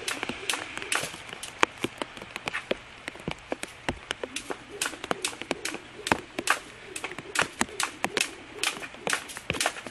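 Rain dripping and pattering in irregular, sharp taps on a hard surface, over a faint steady hiss.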